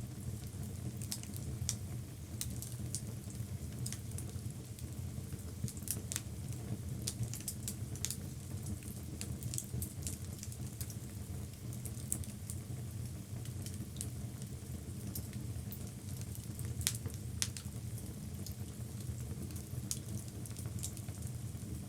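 Logs burning in a fireplace: a steady low rumble of flames with frequent sharp crackles and pops, the loudest pops about three quarters of the way through.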